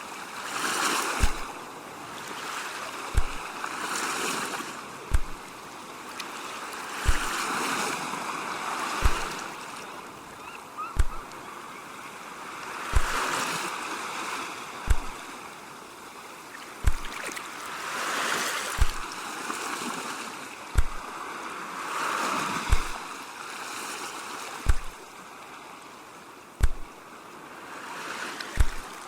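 Ocean waves washing in and out in slow swells. A soft low thump repeats evenly about every two seconds under the waves.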